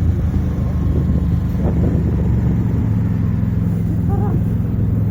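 A vehicle engine running steadily: an even, low drone.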